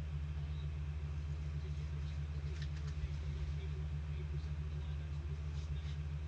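A steady low hum, with a few faint clicks and rustles of trading cards being handled.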